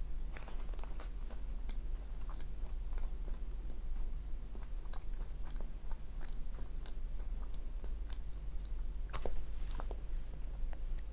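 Close-up chewing of McDonald's french fries: a run of soft mouth clicks, with a few louder clicks about nine seconds in.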